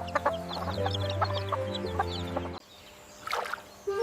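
A hen clucking with her chicks cheeping, over background music with steady held tones; the sounds stop about two and a half seconds in.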